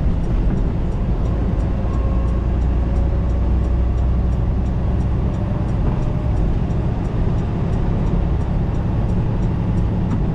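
Steady low drone of a semi-truck's diesel engine and road noise heard inside the cab while cruising on the highway.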